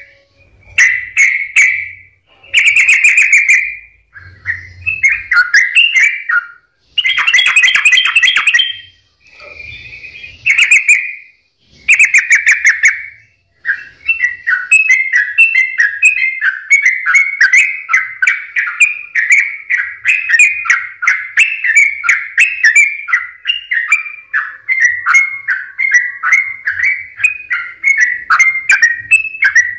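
Yellow-vented bulbul (trucukan) singing loudly: short bubbly phrases with brief pauses between them for the first half, then a continuous rapid run of chattering notes.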